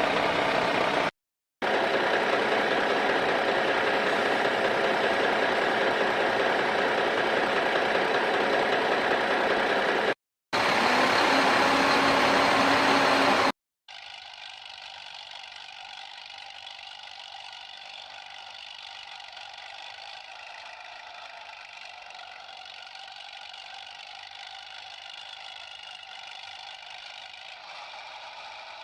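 An engine running steadily, loud at first and broken twice by abrupt cuts. From about halfway through it gives way to a quieter, steady hum.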